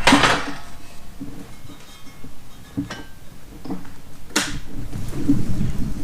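Sharp metallic clanks of steel parts being struck or set down on a hard surface: a loud one at the start and another about four seconds in, with lighter clinks between. A low rumbling noise starts near the end.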